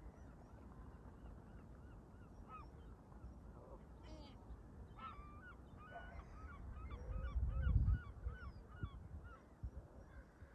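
Canada geese honking repeatedly, the calls coming thick and fast in the second half, with higher chirps from other birds mixed in. A gust of wind buffets the microphone with a low rumble about seven seconds in, the loudest moment.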